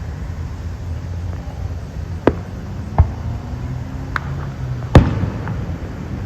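Fireworks going off: four sharp bangs at uneven intervals, the loudest about five seconds in, over a steady low background rumble.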